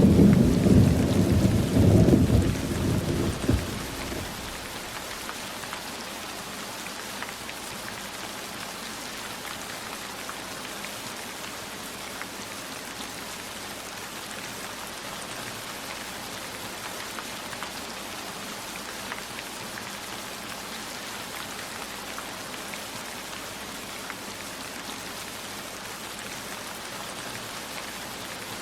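Steady heavy rain falling, with a low rumble of thunder that dies away about four seconds in.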